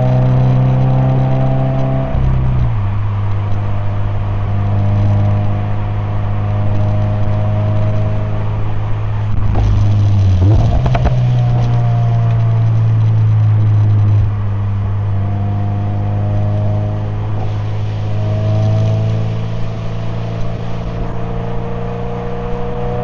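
Subaru BRZ's 2.4-litre flat-four engine and exhaust running steadily under way. The engine note drops about two seconds in and rises again about eleven seconds in, with a brief clatter around ten seconds.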